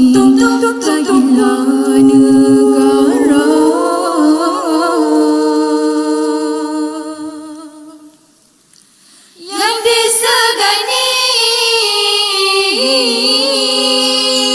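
A cappella nasyid vocal group singing long held chords in close harmony. The first chord fades out about two thirds of the way through, there is a brief near-silent pause, and then a new sustained chord comes in.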